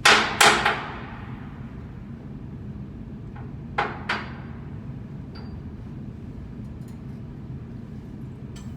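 Hammer blows on metal, in two pairs: a loud pair right at the start and a softer pair about four seconds in, each blow ringing briefly, over a steady low hum.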